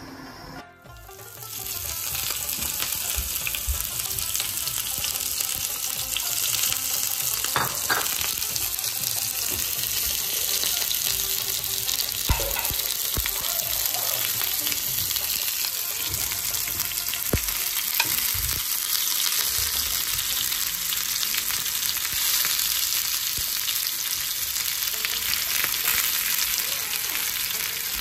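Minced-meat kebabs frying in a pan: a steady sizzle that starts abruptly about a second in, with a few light knocks along the way.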